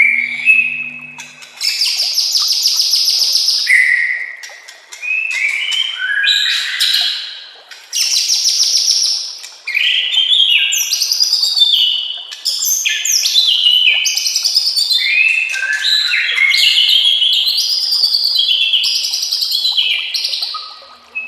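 White-rumped shama (murai batu) singing a long, varied song of fast whistled and chattering phrases, in bursts with short breaks at first, then almost without pause.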